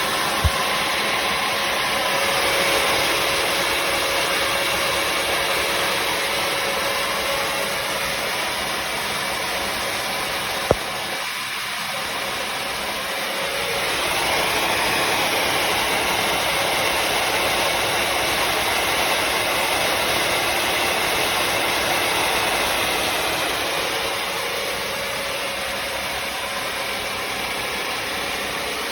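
Bissell CrossWave HydroSteam wet-dry floor cleaner running steadily: a motor hum and whine over a rush of air. Sharp clicks come about half a second in and again about ten seconds in.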